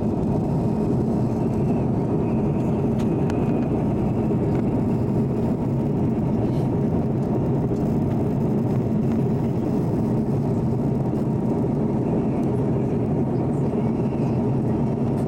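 Steady cabin noise of an airliner in flight: engine and airflow noise, an even low hum with little change.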